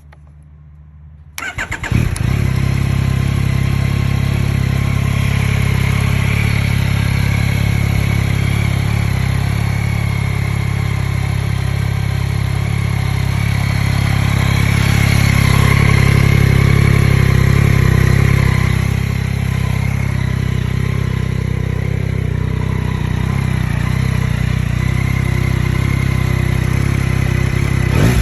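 Yamaha Tracer 9 GT's 890 cc inline three-cylinder engine starting: a brief crank about a second and a half in catches at once, and the engine then idles steadily. The idle rises and grows a little louder for a few seconds in the middle before settling back.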